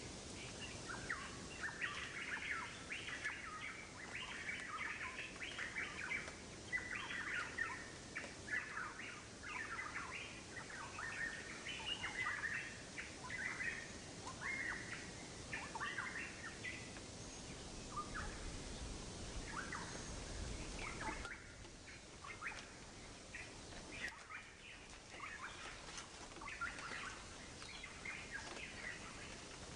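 Small birds chirping and twittering in quick, busy runs over a faint steady hiss, thinning out in the second half.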